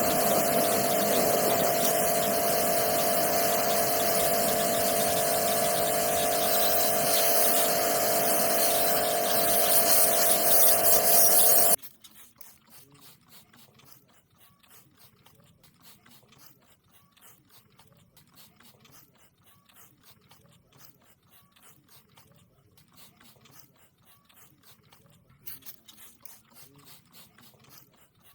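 Loud, steady machine noise with a steady whine in it, cut off abruptly about twelve seconds in; afterwards only faint light clicks and taps.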